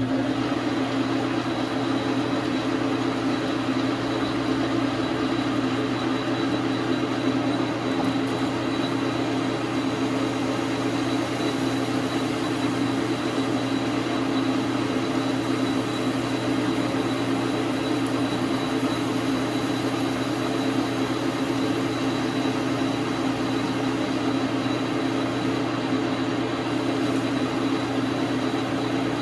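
Dar Sin 12 x 37 manual lathe running steadily: a constant motor and gear drone with a thin, steady high whine.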